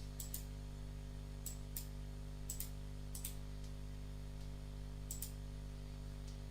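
Computer mouse button double-clicked five times, sharp clicks in quick pairs, at a computer that is not responding. A steady low electrical hum runs underneath.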